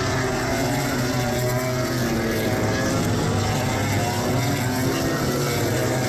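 Several road-racing motorcycle engines running at high revs around the circuit, a steady drone of overlapping engine notes that waver up and down slightly.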